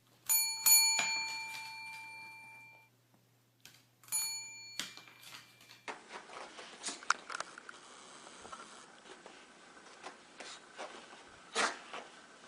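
A small bell rings with a few quick strikes and fades over a couple of seconds, then rings again briefly about four seconds in. After that come faint scattered clicks and rustling.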